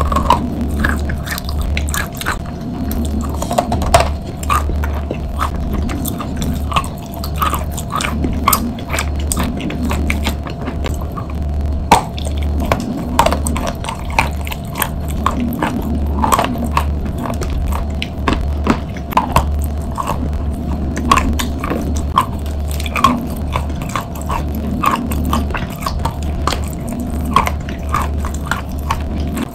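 Close-miked biting and chewing of a block of chalk coated in chalk paste: many sharp, crisp crunches, often several a second, with softer wet chewing between.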